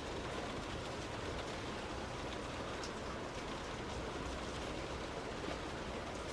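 Heavy rain falling on a moving car, mixed with the car's running and its tyres on the wet road, making a steady noise with scattered ticks of drops hitting the car.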